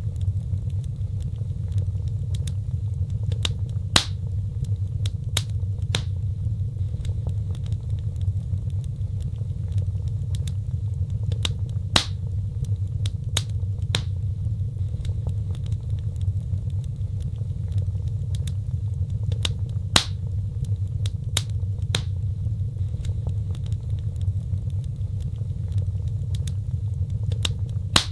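Fireplace wood fire burning: sharp crackles and pops over a steady low rumble, the same pattern of pops repeating about every eight seconds.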